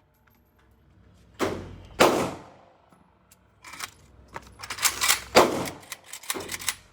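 Gunfire at a shooting range: two shots about half a second apart, each trailing off in echo. Then a quicker, uneven string of shots with lighter metallic clattering between them.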